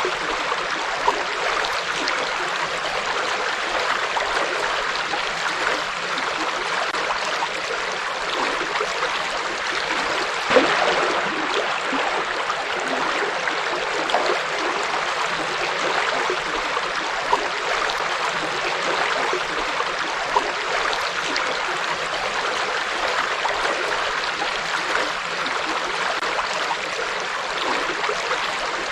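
River water flowing over rocks: a steady rushing babble, with an occasional brief splash, the clearest about ten seconds in.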